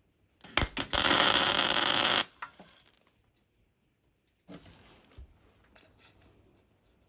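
Welding arc on a steel exhaust pipe: two brief strikes, then a steady crackling hiss of about a second and a half that cuts off suddenly. A shorter, weaker burst of welding comes about four and a half seconds in, fading into faint ticks.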